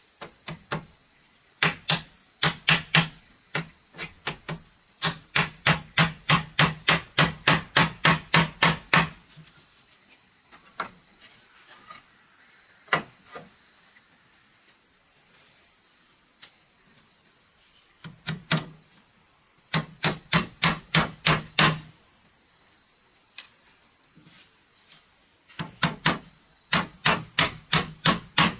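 A hammer striking wood in quick runs of about four blows a second, with pauses between the runs. A steady high insect drone runs beneath.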